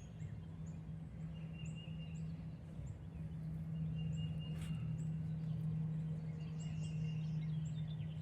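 Outdoor ambience: a steady low hum throughout, with high chirps repeating a little more than once a second and a short bird trill every few seconds.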